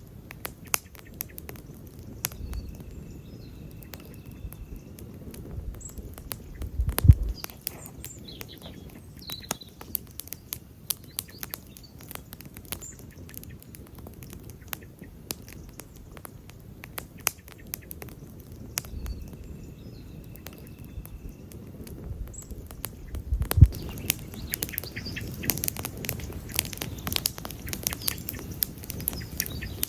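Wood campfire burning: a steady stream of sharp, irregular crackles over the low rush of the flames, with a louder pop about seven seconds in and another about two-thirds of the way through.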